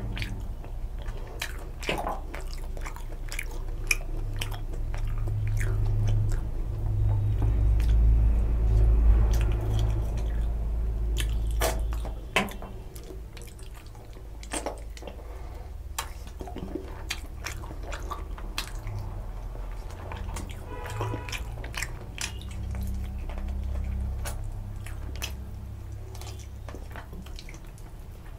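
Close-miked chewing of rice and mutton curry eaten by hand, with many wet mouth smacks and clicks. A low rumble swells and fades over the first half.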